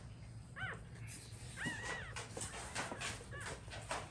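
Day-old American bully puppies whimpering: three short, high-pitched cries, the middle one the longest, with faint rustling as they are handled.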